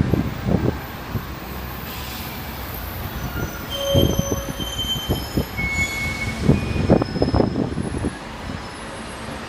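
Wind buffeting the microphone in irregular gusts, heaviest in the middle and toward the end, with several short, thin, high-pitched squeals in between.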